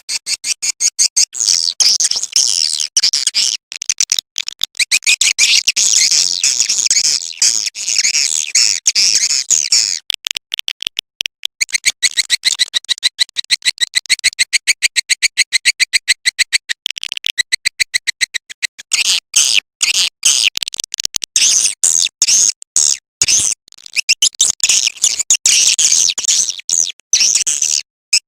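Swiftlet calling sound played back: a dense, high-pitched twittering of rapid clicks and chirps, the lure call used to draw edible-nest swiftlets into a swiftlet house.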